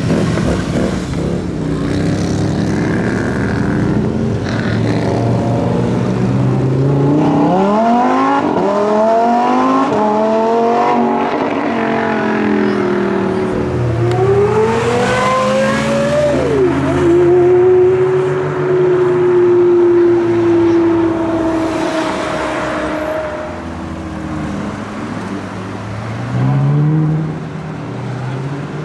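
Supercar engines accelerating hard, loud throughout. The revs climb several times; one climb ends in a sudden drop in pitch like an upshift, followed by a steady held engine note.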